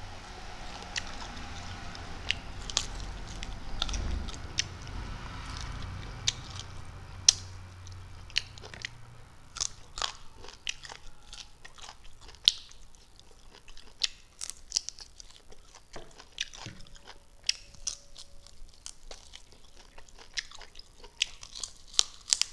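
Close-miked chewing and biting of a chicken wing: irregular sharp wet smacks and crunches. A low hum sits under the first nine seconds or so, then fades out.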